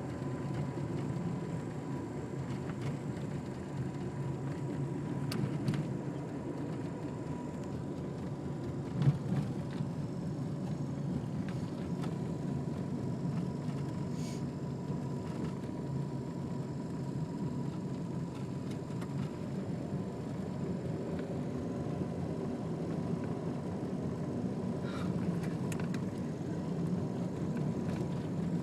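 Car driving slowly, with steady engine and road rumble heard from inside the cabin, a faint steady high whine, and a single knock about nine seconds in.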